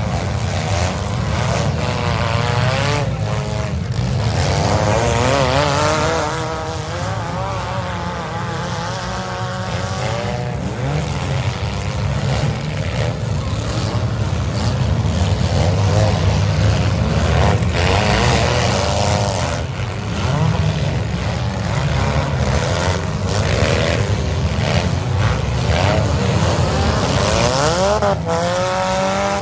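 Several compact demolition derby cars' engines running and revving hard, their pitch rising and falling over a steady rumble, with occasional crashes of cars ramming each other.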